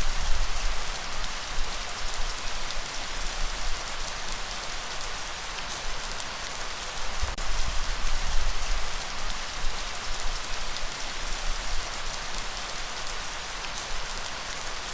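Steady rainfall, a dense even hiss of drops with occasional single drop clicks, over a low rumble that swells and fades.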